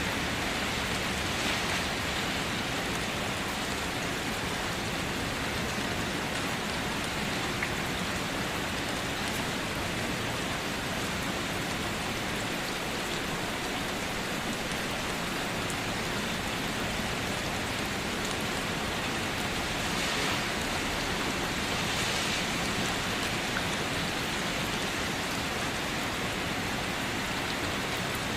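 Steady rain falling on a car, an even hiss of drops on the body and glass with occasional faint taps of heavier drops.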